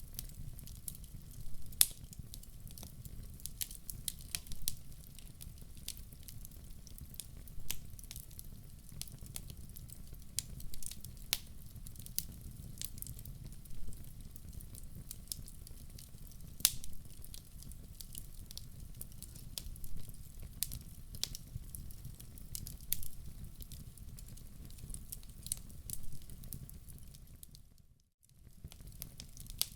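Wood fire in a fireplace crackling: irregular sharp pops and snaps over a steady low rumble of the flames. The sound cuts out briefly about 28 seconds in, then resumes.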